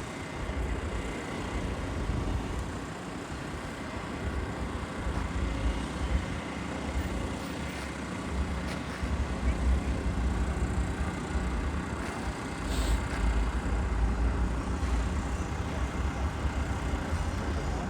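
Jet airliner engines giving a steady rumble, heaviest in the low end, with no clear rise or fall.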